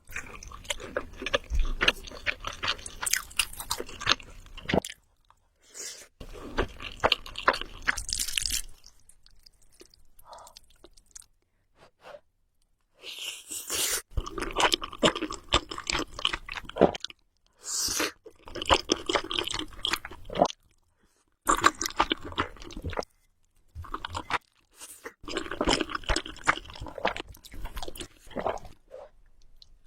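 Close-miked eating of Samyang carbonara Buldak noodles: chewing in bursts a few seconds long, separated by short pauses.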